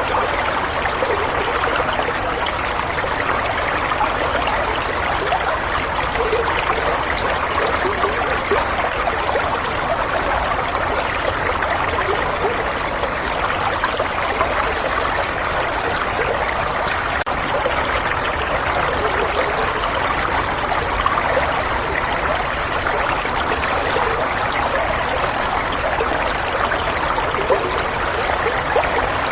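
Flowing water running steadily, a continuous trickling rush without breaks or changes.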